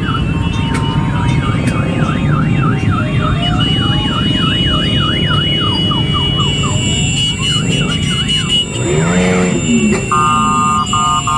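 Motorcycle engines rumbling under electronic sirens sweeping rapidly up and down in pitch. About nine seconds in a single siren swoops down and up, and near the end a different, pulsing electronic tone starts.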